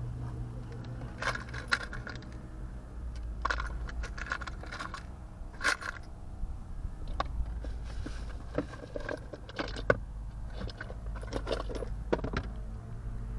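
Irregular clicks, taps and light rattles of small hard parts being handled, as in fiddling with the plane's fittings during a repair, over a steady low hum.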